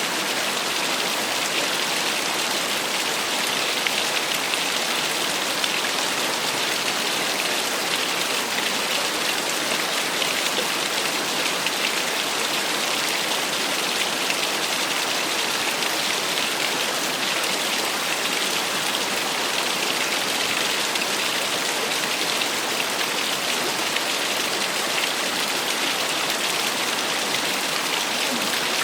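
Small waterfall splashing steadily: an even, bright hiss of falling water with a fine crackle of splashes and no change throughout.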